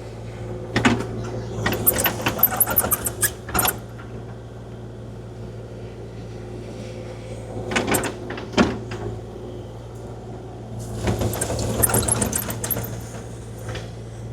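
Kubota KX040-4 mini excavator's diesel engine running steadily while its bucket scrapes and drags gravel in three spells of crunching and rattling stones, as the driveway is graded smooth.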